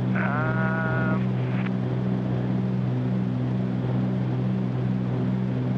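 Steady drone of a Cessna 310Q's twin piston engines and propellers heard inside the cabin in flight. A short pitched tone or voice fragment sounds over it for about a second just after the start.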